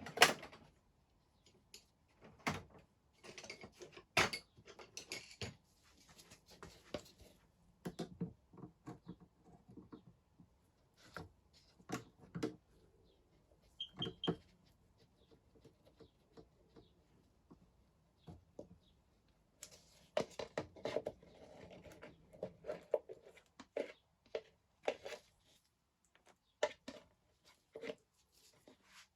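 Scattered clicks, taps and knocks of hand tools and metal parts being handled while working on a dirt bike's fuel system, with busier stretches of clatter; no engine running.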